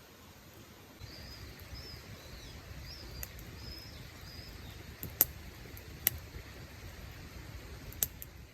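A small bird calling in a row of short high chirps over a low steady outdoor background noise, with four sharp cracks or clicks, the loudest about five seconds in.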